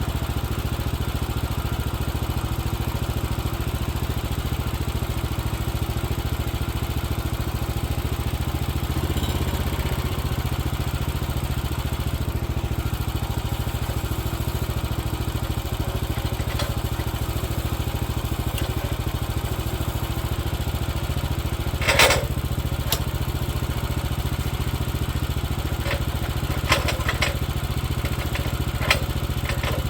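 Gas engine of a Woodland Mills HM130Max bandsaw mill running steadily, with a few sharp metal knocks and clanks about two-thirds of the way through and again near the end.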